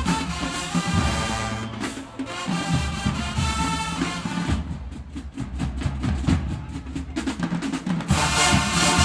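Marching band playing: the brass plays chords over the drums, then drops out about halfway through, leaving the drumline alone on a run of sharp, fast drum strokes, and the full brass comes back in near the end.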